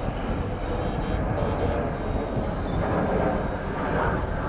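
Steady jet noise from a formation of Red Arrows BAE Hawk T1 jets flying overhead during an aerobatic display.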